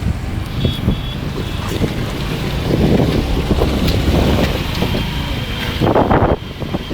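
Wind buffeting the microphone over the steady rush of a river in flood, with irregular louder gusts, the strongest near the end.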